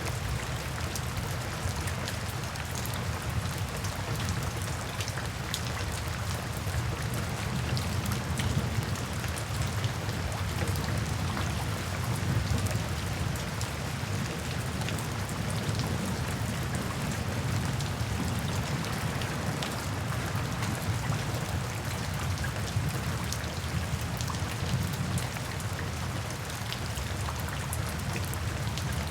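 Steady rain falling, with many individual drops ticking over an even hiss and a steady low rumble underneath.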